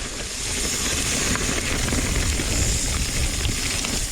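Mountain bike riding down a wet dirt trail: a steady rush of tyre and wind noise with a low rumble, building over the first second as it picks up speed.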